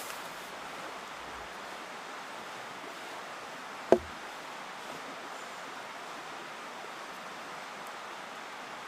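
Steady rushing of a mountain stream, with one short sharp knock about four seconds in.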